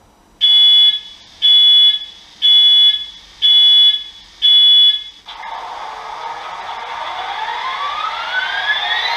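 A model locomotive's DCC sound decoder playing its startup sequence through the loco's small speaker: five loud electronic beeps about a second apart, then a hiss with rising whining tones that builds steadily.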